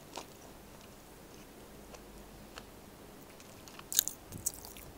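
Close-miked eating sounds: soft wet clicks and smacks of chewing a mouthful of rice and beef caldereta, with a louder cluster of sharp smacks about four seconds in.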